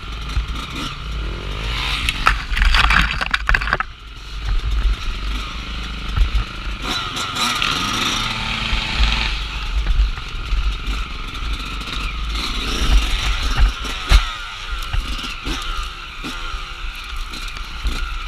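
Dirt bike engine being ridden off-road, revving up and down with several harder bursts of throttle.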